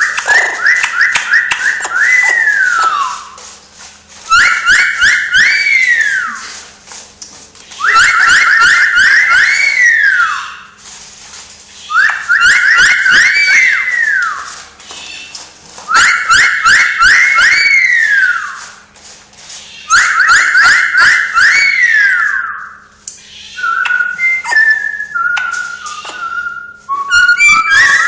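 Talking parrot whistling the same short phrase six times, about every four seconds: a quick run of trilled notes that ends in a falling glide. Near the end it switches to shorter, choppier whistled notes.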